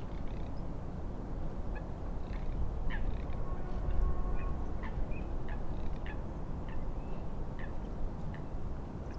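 Birds calling in short, sharp notes, repeated about once or twice a second, over a steady low rumble of wind and waves.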